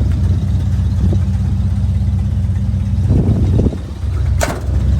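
1977 Ford F350's 400 V8 idling steadily, with a sharp click about four and a half seconds in.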